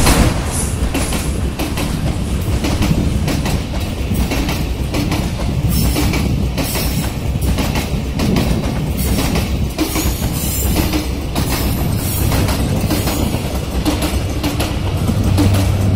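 Train running on the track, its wheels clattering over rail joints amid a steady rush of rolling noise.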